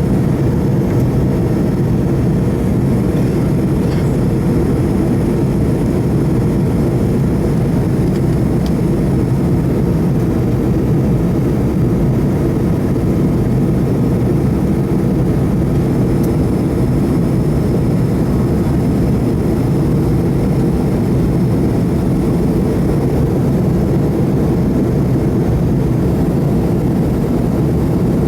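Steady, loud cabin noise of a McDonnell Douglas MD-88 in flight: the rear-mounted Pratt & Whitney JT8D turbofans and the airflow over the fuselage make an even, low-pitched rumble with no change throughout.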